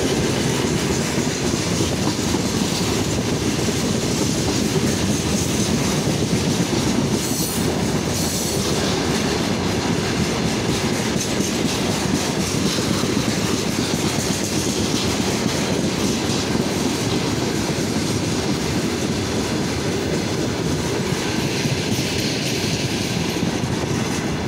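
Long freight train of hopper and gondola wagons rolling past close by, wheels clattering steadily over the rails, with a brief high squeal about seven seconds in.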